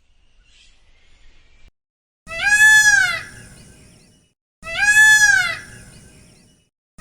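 Peacock calling: two loud, wailing calls a little over two seconds apart, each rising and then falling in pitch.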